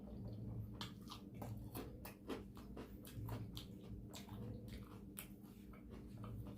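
Close-up chewing: a quick run of wet mouth clicks and smacks as a mouthful of food is chewed, over a steady low hum.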